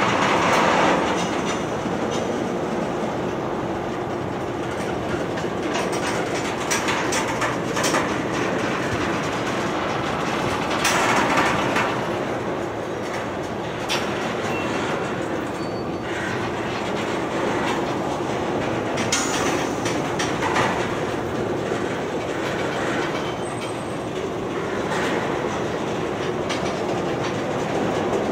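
Freight train's covered hopper and tank cars rolling slowly through a grade crossing: a steady rumble of steel wheels on rail, broken by irregular clicks and clanks as the wheels cross rail joints.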